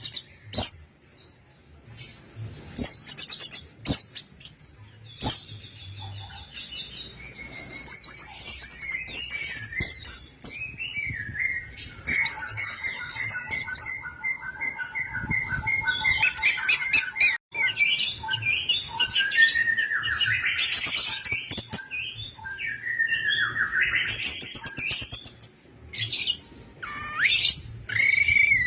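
Orange-headed thrush singing a long, varied song of rapid high trills and whistled phrases, broken by short pauses.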